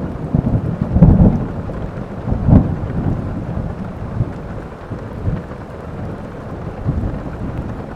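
Thunder rumbling with heavy rain. The rumble crackles loudest about a second in and again about two and a half seconds in, then rolls away.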